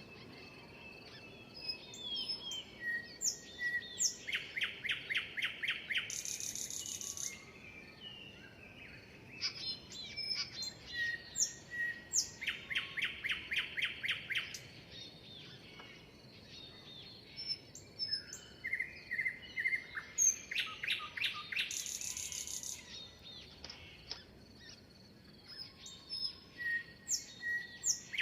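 Several songbirds chirping and singing, with short whistled notes and bursts of rapid trills that come back about every eight seconds.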